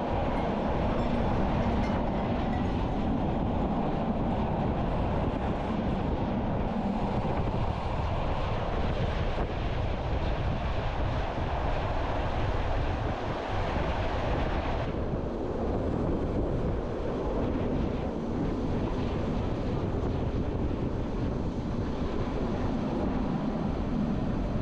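Bernina line train rolling along the track, heard from an open observation carriage: a steady running rumble of wheels on rails. The higher hiss drops away about fifteen seconds in.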